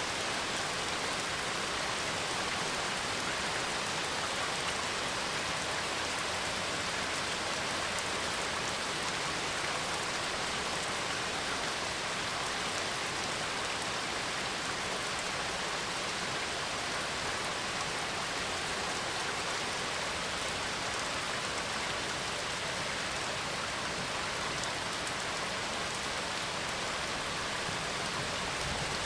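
Steady rain falling, an even, unbroken hiss with no thunder claps or other distinct events.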